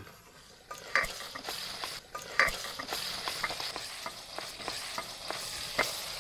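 Diced pork frying and sizzling in its fat in a pot, stirred with a wooden spoon that knocks and scrapes against the pot. The loudest knocks come about one second and two and a half seconds in.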